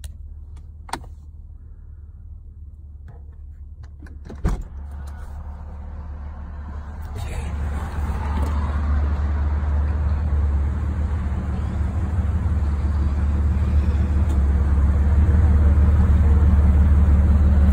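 A car door latch clicks about four and a half seconds in. Then the low, steady rumble of a Jeep Wrangler's engine idling grows louder and becomes the main sound near the end.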